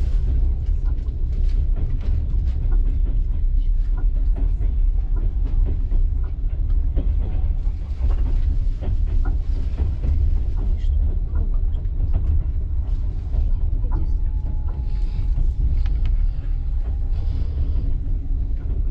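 Passenger train running, heard from inside the carriage: a steady low rumble with the wheels knocking irregularly over rail joints. A thin steady whine sounds for about three seconds near the end.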